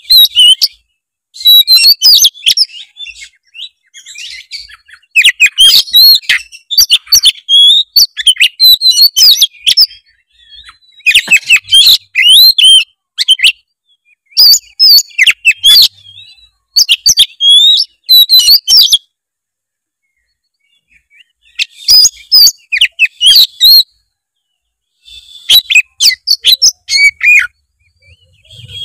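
Oriental magpie-robin singing loudly in bursts of rapid, varied whistled phrases packed with mimicked calls, with short pauses between bursts.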